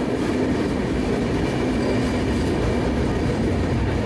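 A passenger train running through a rail tunnel, heard from an open coach doorway: a steady rumble of the wheels on the track, enclosed by the tunnel walls.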